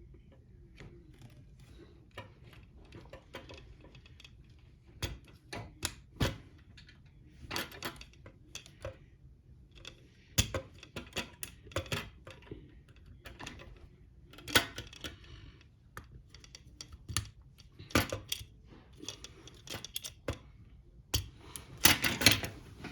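Plastic toy construction-kit parts being handled and pressed together: irregular sharp clicks and light knocks, with a denser, louder burst of clicking near the end.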